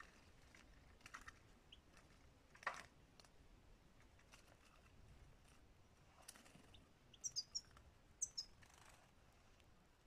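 Small bird chirping: two short clusters of quick, high, falling chirps in the second half. A single sharp click comes earlier, with a few fainter clicks scattered through.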